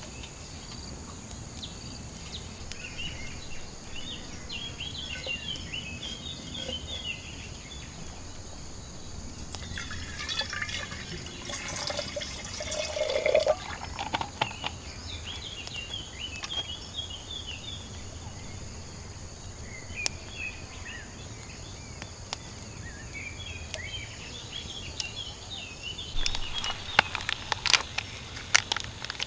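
Water poured into a container for a few seconds around the middle, its pitch gliding as it fills. Near the end come several sharp knocks of something being handled. Underneath is a steady high drone of insects with scattered bird chirps.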